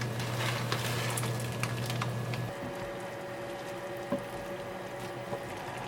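Wet food sounds from cooking, a soft squishing and bubbling with scattered light clicks, over a steady low hum that stops about halfway through.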